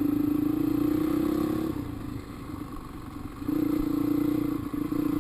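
Dirt bike engine under throttle on the trail: held on for under two seconds, eased off, then opened up again about three and a half seconds in.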